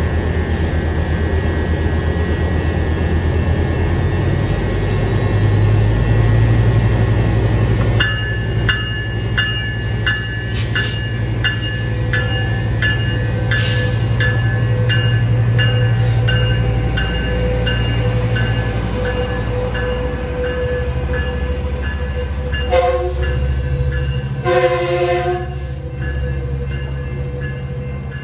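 A Metrolink Siemens Charger diesel locomotive runs past as it pulls out, its engine note rising about five seconds in. From about eight seconds a crossing bell dings at a steady, quick rhythm. Near the end come two short horn blasts.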